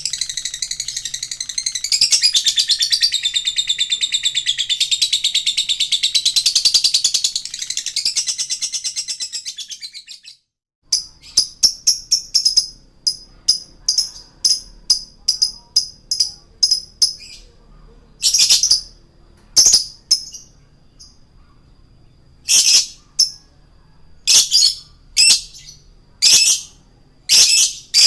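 Male lovebird chattering in a continuous, rapid, high-pitched warble for about ten seconds. After a short break it switches to sharp, shrill single chirps, quick at first and then about one a second.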